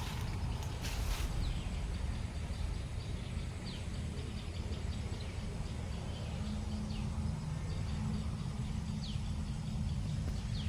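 Outdoor ambience: a steady low rumble, with a bird giving short, falling chirps every second or two. There is a brief rustle about a second in.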